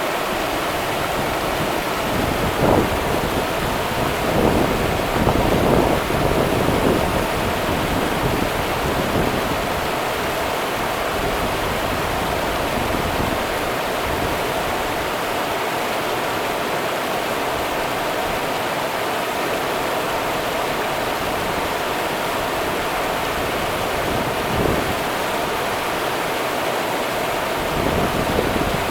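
Rio Grande river water running in a steady rush, with a few brief louder surges a few seconds in and again near the end.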